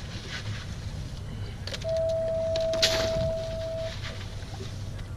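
Boat motor running with a steady low rumble; in the middle a single steady high tone sounds for about two seconds, the loudest thing here, its source unknown. A few faint clicks and knocks.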